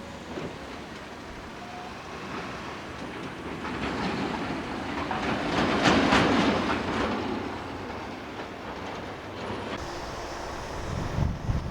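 A heavy vehicle passing by: the noise builds for a few seconds, peaks about six seconds in, then fades away. Near the end there is low buffeting of wind on the microphone.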